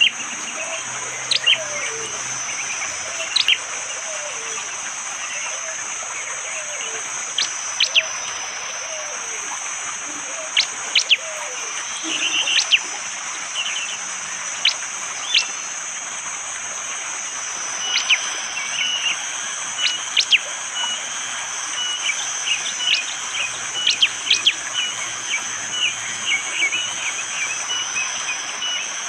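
Prenjak jali birds giving short, sharp, whip-like call notes ('tembakan', shots) at irregular intervals, with twittering between them. Behind them runs a steady high-pitched forest drone with the hiss of rain, and lower-pitched calls from other birds sound in the first few seconds.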